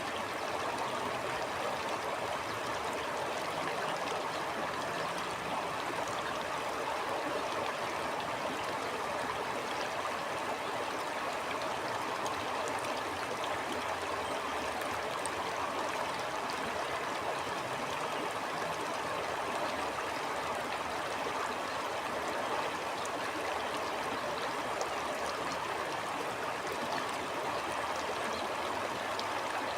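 A stream flowing steadily over rocks, a constant rushing wash with fine gurgling and splashing.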